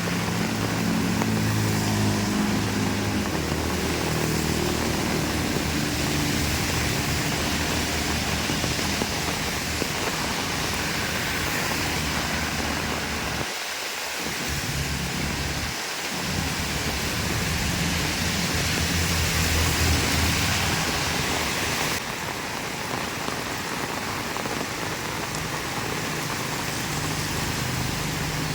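Heavy rain pouring steadily, a dense hiss. In the first few seconds a low vehicle engine rumble fades away, and a second low rumble swells about two-thirds of the way through.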